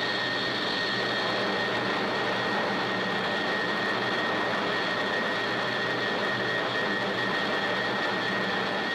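Jet aircraft in high-speed flight: a loud, steady rushing noise with a steady high-pitched whine, which cuts off abruptly at the end.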